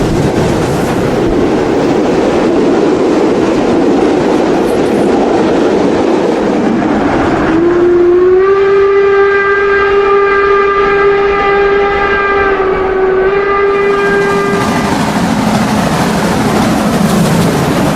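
Märklin model steam locomotive train running with its sound on, a steady rolling noise; about seven seconds in a long steam-whistle blast sounds, rising slightly in pitch as it starts and held for about seven seconds before the running noise carries on alone.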